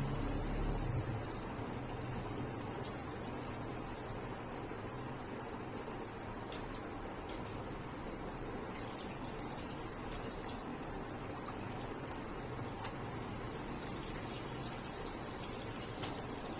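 Steady running or splashing water, with scattered small sharp ticks and drips.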